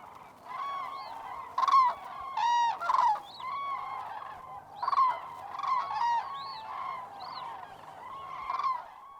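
A flock of common cranes calling: many short, arched trumpeting calls overlapping one another without a break.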